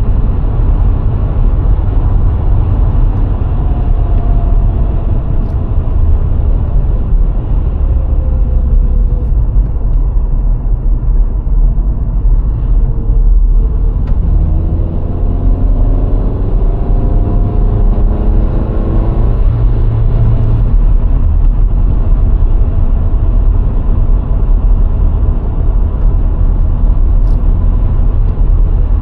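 Moving car from the inside of a VW Golf IV 1.6, with steady, loud road and tyre rumble. About halfway through, the engine note rises in pitch for about five seconds, as the car accelerates in a gear, then falls away.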